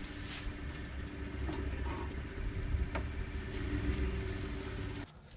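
Pickup truck engine running steadily at low revs. The sound cuts off suddenly about five seconds in.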